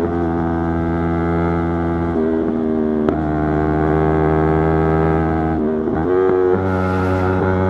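Yamaha YZF-R3's parallel-twin engine running at steady revs under way, its pitch holding flat for a few seconds at a time. It breaks and settles at a new pitch about two seconds in, and again near six seconds after a short rise in revs, as with gear changes.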